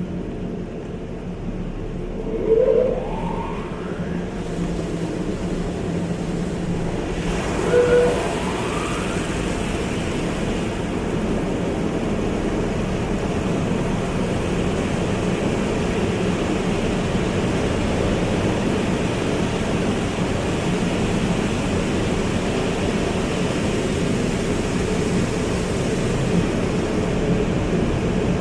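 Car wash machinery running with a steady rush of spraying water and motors. The rush fills out about seven seconds in, and there are two short rising whines, one near the start and one about eight seconds in.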